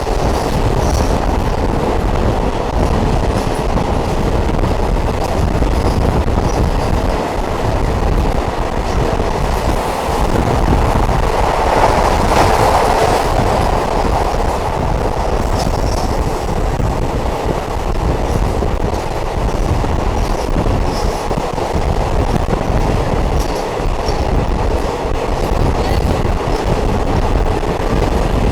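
Diesel multiple unit train running, heard from on board: a steady rumble of wheels on track and engine, swelling louder for a moment about twelve seconds in.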